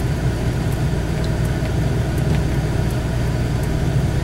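Steady low drone of a four-wheel-drive vehicle's engine and tyres, heard from inside the cab while driving slowly through deep snow, with a few faint scattered ticks.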